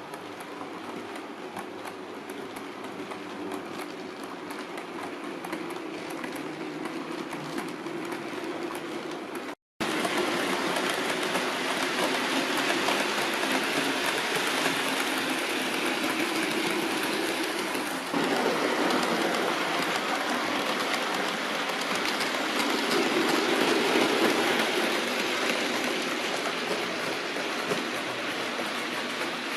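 OO gauge model trains running on the layout's track: a steady rumble of wheels and motors with clicking over the rail joints. It drops out for a moment about a third of the way in, then comes back louder.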